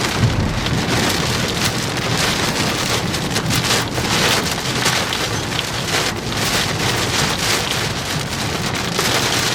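Heavy rain drumming on a moving car, heard from inside the cabin: a steady dense patter with many small sharp drop impacts, over low road noise.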